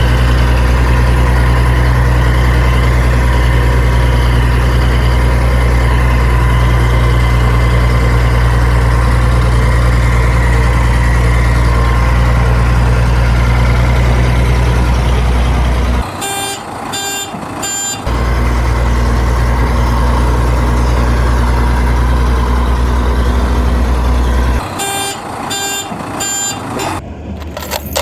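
Heavy truck diesel engine running steadily with a deep drone. It gives way twice to a short run of evenly spaced high reversing beeps, once about two-thirds of the way in and again near the end.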